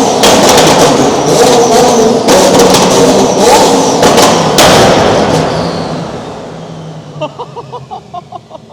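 Twin-turbo Lamborghini Huracán STO V10 revving hard in a parking garage, with a string of sharp exhaust pops and bangs. It stops about five seconds in and the echo dies away.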